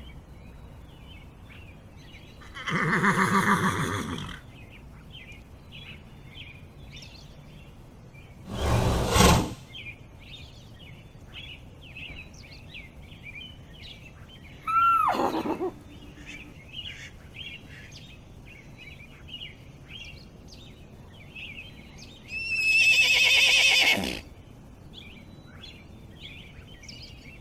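Horses whinnying: four separate calls a few seconds apart, one of them a single call falling in pitch, over steady bird chirping in the background.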